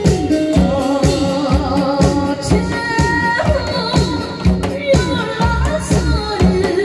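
Music with a steady drum beat and a woman singing over it.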